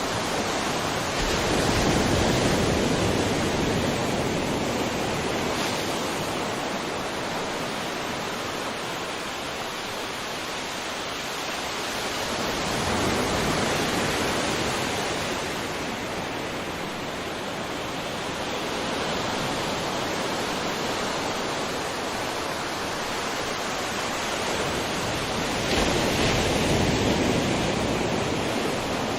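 Sea waves breaking and washing in, a continuous rush that swells three times, about twelve seconds apart: near the start, about halfway through, and near the end.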